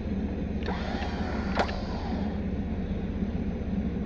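A vehicle engine idling steadily, with a faint click about a second and a half in.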